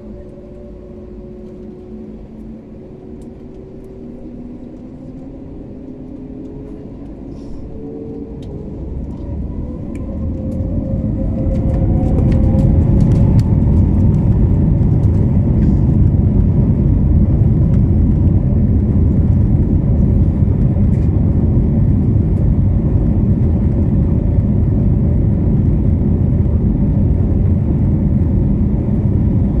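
Airbus A330 jet engines spooling up to takeoff thrust, heard inside the cabin: a whine that rises in pitch for several seconds, then a loud, steady rumble as the airliner starts its takeoff roll.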